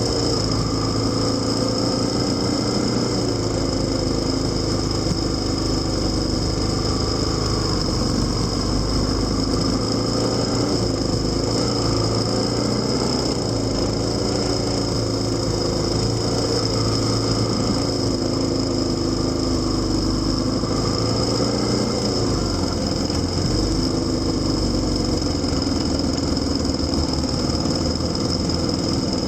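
Motorcycle engine running while being ridden on a tour, its pitch dipping and rising again several times with changes of speed, over a steady low rumble and a thin high whine.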